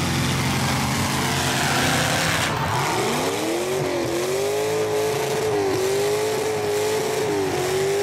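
Demolition derby truck engine revved hard about three seconds in: its pitch climbs and then holds high, with several brief dips.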